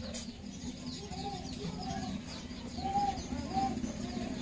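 Birds calling: a string of short notes that rise and fall, about two a second, beginning about a second in, with small high chirps above them, over a low steady hum.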